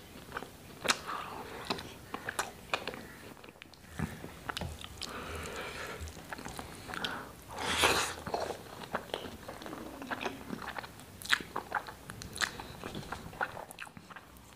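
Close-up eating sounds of rice and chickpea curry eaten by hand: wet chewing with many sharp mouth clicks and smacks. About eight seconds in, a handful of rice pushed into the mouth makes the loudest sound.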